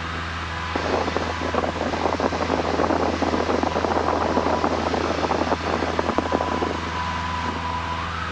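Cessna 172N's four-cylinder Lycoming engine droning steadily in the cabin. A harsh crackling noise lies over it from about a second in until near the end.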